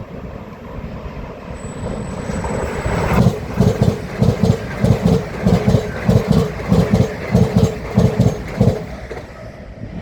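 A train runs past along the platform, its wheels clacking over the rail joints in a steady rhythm of about two beats a second. The sound builds up over the first few seconds and dies away near the end.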